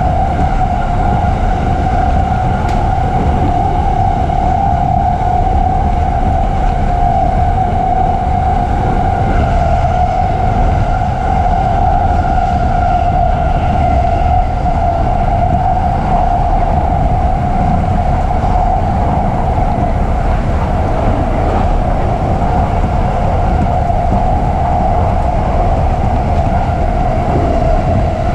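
E233-series electric commuter train running steadily at speed, heard from inside the passenger car: a continuous low rumble of wheels on rail with a constant whine over it.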